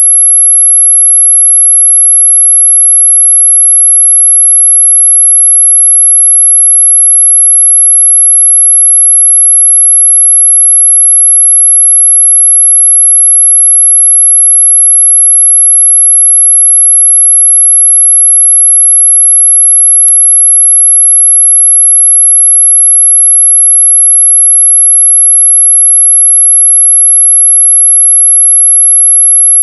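A steady, loud, high-pitched pure tone held without a break: an electronic 'anti-mosquito' repellent tone, audible rather than truly ultrasonic. A brief faint click comes about twenty seconds in.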